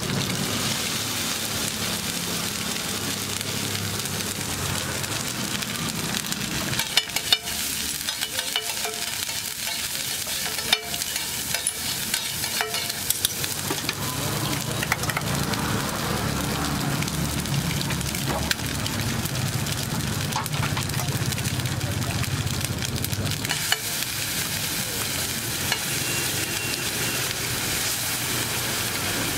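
Egg and cheese mixture sizzling steadily in oil on a large flat iron griddle. A spatula scrapes and taps on the griddle now and then, giving a few sharp clacks.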